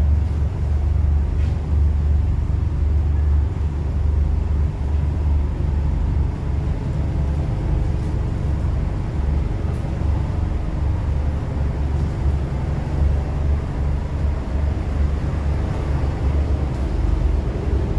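Steady low engine rumble, heard from aboard a moving vehicle.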